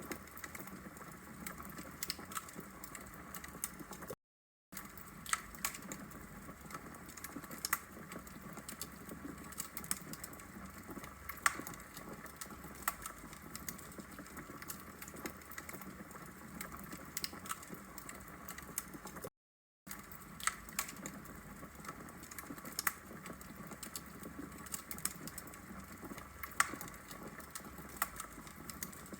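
Logs burning in a fireplace, crackling with frequent sharp pops over a steady faint hiss. The sound cuts out to silence twice, for about half a second each time.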